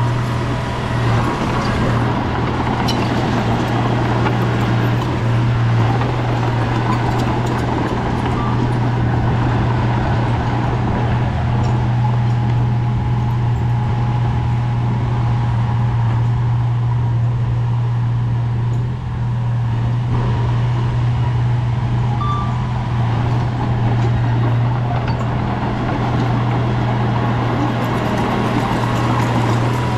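Bulldozer's diesel engine running steadily, a strong low drone that holds for the whole stretch.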